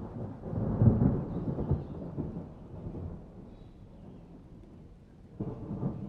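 Thunder rumbling over rain: a deep roll swells to its loudest about a second in and slowly dies away, and a second rumble starts near the end.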